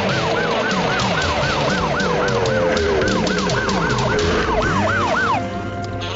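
Emergency-vehicle siren on a fast yelp cycle, rising and falling about three times a second, over a music score; it stops about five and a half seconds in, leaving the music.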